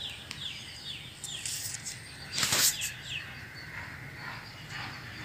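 A bird calling in the background: a string of short falling notes, about three a second, that stops about three seconds in. A brief rustle about two and a half seconds in is the loudest sound.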